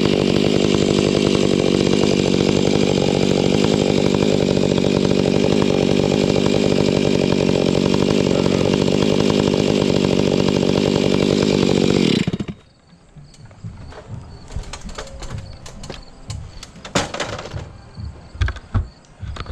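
Chainsaw running steadily, then shutting off abruptly about twelve seconds in. It is followed by scattered knocks and thuds, louder ones near the end.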